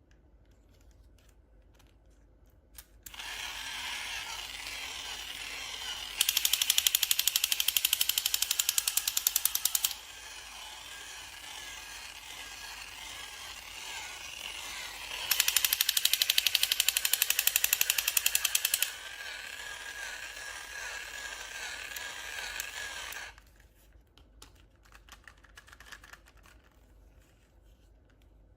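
A small mechanism clicking rapidly and evenly for about twenty seconds, with two louder spells of about four seconds each, then stopping suddenly.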